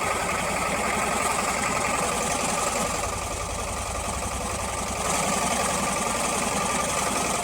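Motorboat engine running steadily, dipping slightly in loudness for a couple of seconds midway.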